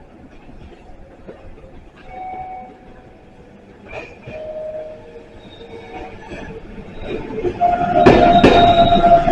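Meitetsu six-car train, a 9100 series leading a 3500 series, pulling into the platform. It is faint at first, then builds about seven seconds in and is loud from about eight seconds. A steady high tone runs with regular clacks of wheels over rail joints.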